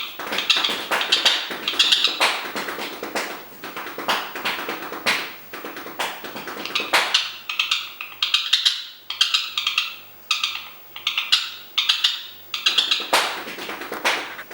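A parrot drumming: quick, uneven sharp taps on a hard object, coming in bursts, sometimes running together into fast rolls.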